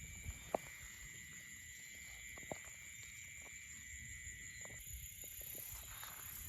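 Faint night ambience: steady high-pitched insect calls, one of them cutting off about three-quarters of the way through, with a few soft ticks.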